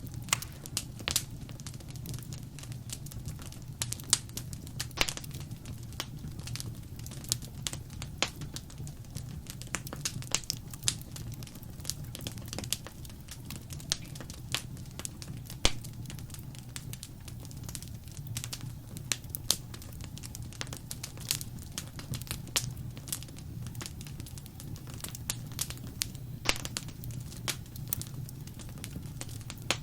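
Wood fire crackling in a fireplace: irregular sharp pops and snaps scattered throughout over a steady low rumble of the burning.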